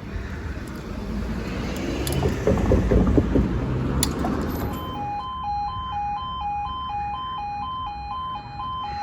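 A road vehicle drives past over the level crossing. About five seconds in, the crossing's two-tone warning alarm starts, alternating between a high and a low tone about twice a second: the signal that the barriers are about to lower for an approaching train.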